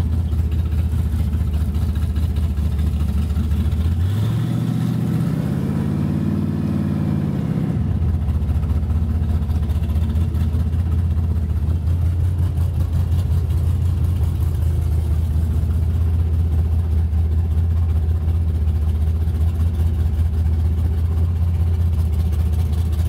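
Hot-rod car engine heard from inside the cabin, running with a deep, steady rumble at low speed. About four seconds in it revs up, its pitch rising and then falling back, and it settles to the steady rumble by about eight seconds.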